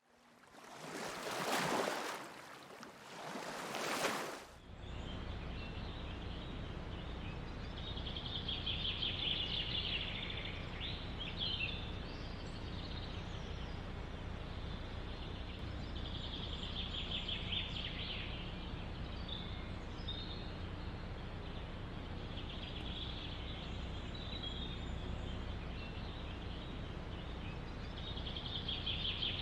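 Wind in a forest, opening with two loud rushing swells and then settling into a steady rush with low rumble. A small bird sings short high trills every few seconds over it.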